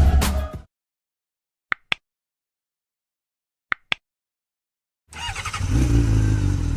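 Intro music cutting off, then silence with two short double beeps about two seconds apart. About five seconds in, a motorcycle engine running on the road comes in with wind noise.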